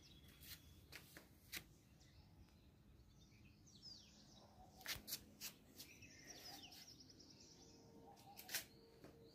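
Quiet outdoor background with small birds chirping: short sloping calls and a fast trill, over scattered sharp clicks.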